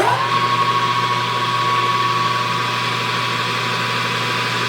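Lathe spindle running at about 1400 rpm: a steady motor whine over a low hum, its pitch rising slightly and settling just after start-up.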